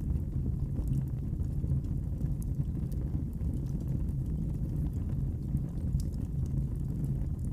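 Wood fire burning in a fireplace: a steady low rumble with a few sharp, scattered crackles and pops.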